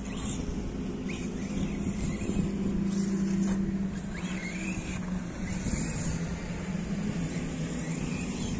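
Electric radio-controlled car running, its motor and drivetrain whining and humming as the pitch shifts with throttle, loudest a few seconds in, with short rising whines as it accelerates.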